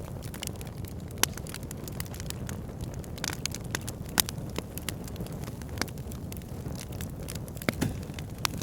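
Backyard fire pit burning: a steady low rumble of flames with sharp crackles and pops scattered irregularly through it. The loudest pop comes about four seconds in.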